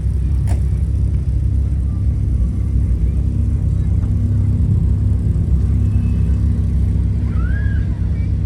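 A car engine running steadily at idle, with a deep, even note.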